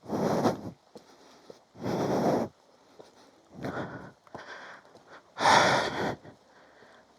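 A man breathing hard and heavily, four loud breaths about every two seconds, out of breath from climbing uphill with a loaded rucksack.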